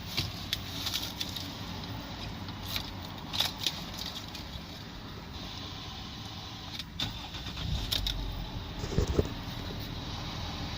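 Ford Territory's 2.7 V6 turbo diesel idling steadily, with scattered clicks and knocks of handling close by.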